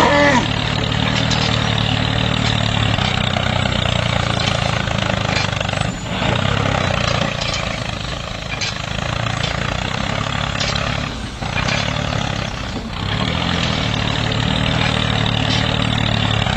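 Tractor engine running steadily while ploughing, with a low hum and a rattling, noisy layer above it that briefly dips a couple of times.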